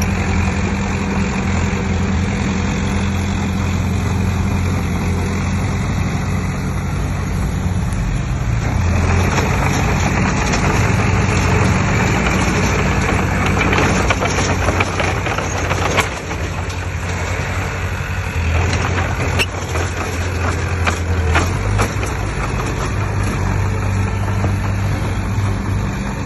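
Diesel engine of heavy earthmoving machinery running steadily. About a third of the way in, a rough clattering noise joins it for several seconds, followed by scattered knocks.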